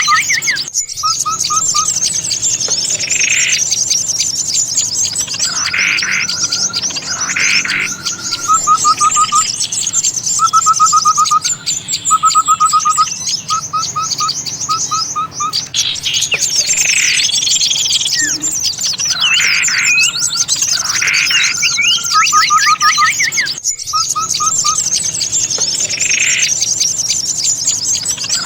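Bird-lure recording of many small songbirds calling at once in an agitated chorus: dense high-pitched chattering over rows of short, repeated rattling trills and sharp calls. The track loops, with a brief gap about a second in and again near the end before the same sequence starts over.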